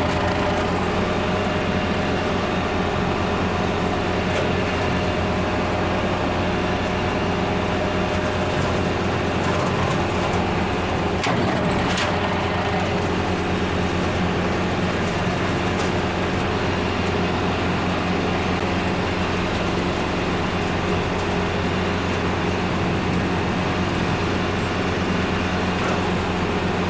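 Kubota L4701 tractor's diesel engine running steadily at working speed while clearing a wooded trail, with a brief crack or snap about eleven to twelve seconds in.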